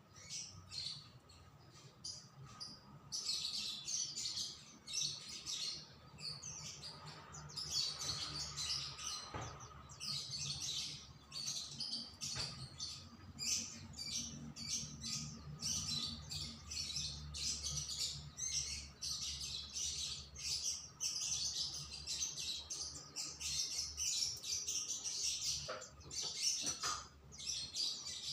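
A songbird singing a fast, near-continuous run of short high chirps, starting up about three seconds in.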